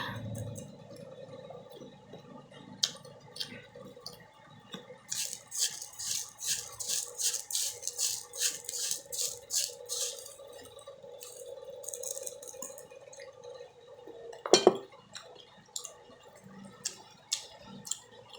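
Crunching and chewing of mango slices eaten with salt, in quick runs of crisp crunches, over a steady hum. One sharp knock comes about fourteen and a half seconds in.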